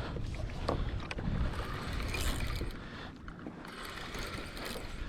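Water and wind noise around a kayak, with the mechanical clicking of a fishing reel being cranked while fighting a hooked fish.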